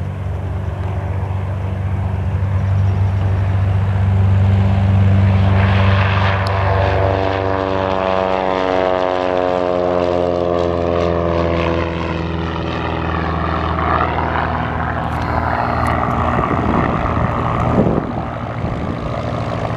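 A 1962 Beechcraft P35 Bonanza's six-cylinder piston engine and propeller at takeoff power. The sound builds as the plane approaches, then drops steadily in pitch as it passes and draws away.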